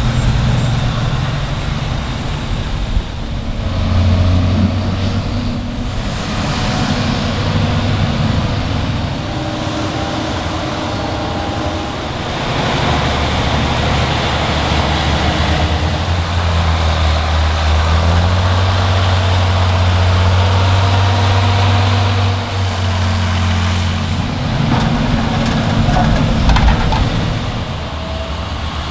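Diesel engines of farm tractors and harvesters running at work. The engine note shifts abruptly a few times, about 4, 12 and 24 seconds in, as one machine gives way to another.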